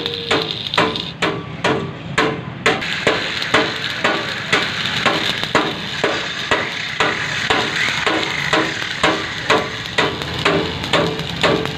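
Hammer striking metal in a steady rhythm, about two to three blows a second, each blow ringing briefly, over a steady background hiss.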